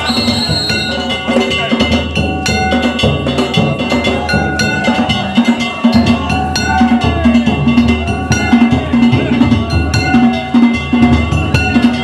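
Danjiri festival music (hayashi) from the float being pulled: a taiko drum beaten in a quick, steady rhythm with small metal gongs ringing over it.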